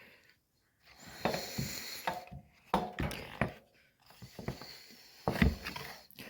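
Irregular clicks, knocks and rattles of plastic air-box parts and tools being handled and fitted back onto a generator, with the loudest knock about five and a half seconds in.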